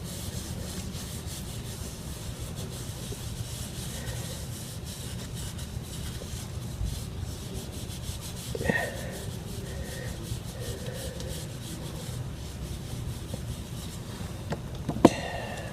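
Hands rubbing leave-in conditioner through hair: a steady close rustling and rubbing, with a couple of small knocks about halfway through and near the end.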